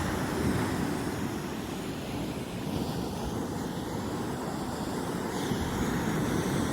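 Heavy ocean surf making a steady low rumble, with wind noise on the microphone.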